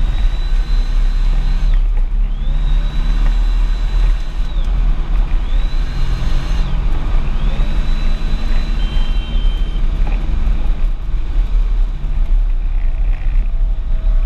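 Audi S4 engine heard from inside the cabin while lapping a race circuit: a heavy engine and road drone, with a high whine that climbs with the revs, holds and falls away four times in the first ten seconds or so, then a spell of drone without the whine near the end.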